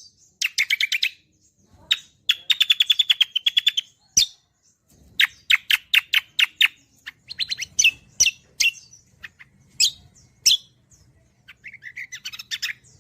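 Cucak kombo songbird singing vigorously: loud bursts of rapid repeated chirps and trills, several notes a second, broken by short pauses between phrases.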